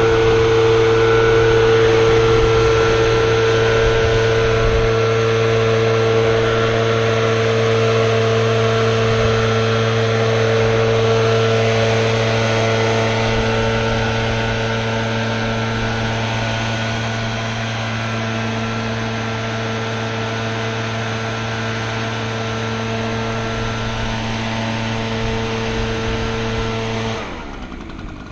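Small gasoline engine of lawn equipment running steadily at a constant speed, then shut off near the end, its sound stopping abruptly.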